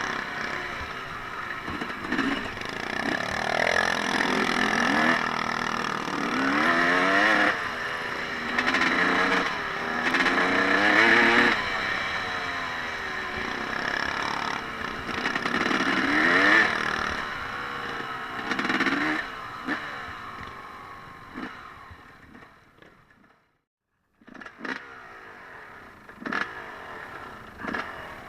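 Off-road engine of a dirt bike or ATV revving up and dropping back again and again, fading away about twenty seconds in. After a brief dropout, a few sharp knocks and clatter over quieter background.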